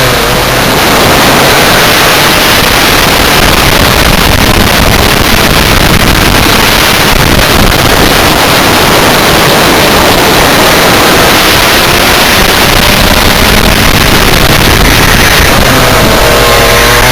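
Rotax Max Senior 125 single-cylinder two-stroke kart engine running at speed under heavy wind noise on the microphone; the engine's pitch comes through more clearly near the end.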